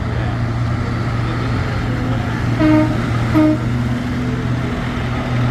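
Tractor engines running steadily, with two short horn toots a little after halfway, under a second apart.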